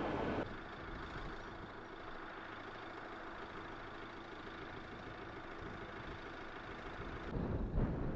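Van engine running steadily with a low hum, while driving. A louder rush of noise comes near the end.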